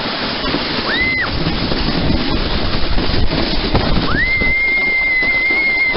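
Wind buffeting the microphone as a steady rumbling noise, with a short high whistle-like tone about a second in and a long, steady high whistle-like tone from about four seconds in.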